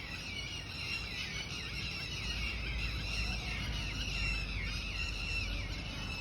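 Many birds chirping and calling at once in a morning chorus: dense, overlapping short chirps that rise and fall in pitch without pause, over a low background rumble.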